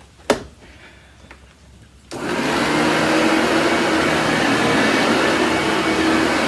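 Vorwerk VK 121 upright vacuum with ET340 powerhead switched on about two seconds in, its motor starting abruptly and running steadily with a constant hum; a single sharp knock comes shortly before.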